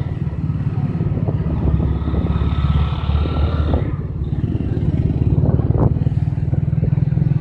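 A vehicle engine running steadily close by, a fast even low rumble with no break. A faint thin whine rises over it for a couple of seconds in the middle.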